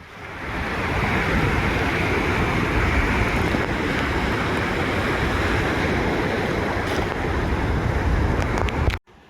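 Ocean surf washing continuously onto a beach, a dense rushing wash that swells up over the first second. It cuts off abruptly near the end.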